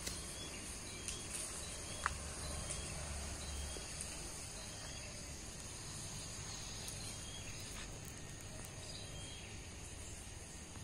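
Steady high-pitched insect chorus, with faint short chirps over it and a single click about two seconds in.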